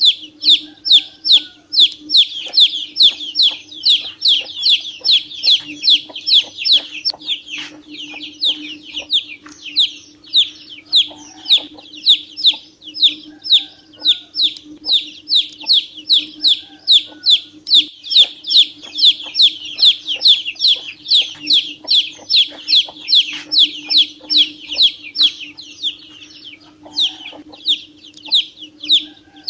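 Ducklings peeping: a constant stream of short, high, downward-sliding peeps, two or three a second, over a steady low hum.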